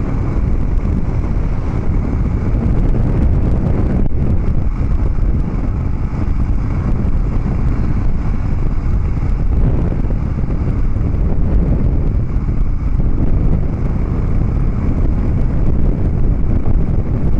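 Harley-Davidson Dyna Street Bob's V-twin, through Vance & Hines Big Radius 2-into-2 pipes, running steadily while riding, mixed with wind buffeting the microphone.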